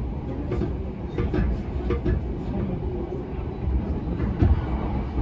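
Running noise of a JR E233-0 series electric commuter train heard inside the passenger car: a steady low rumble of wheels on rail, with one heavier thump about four and a half seconds in.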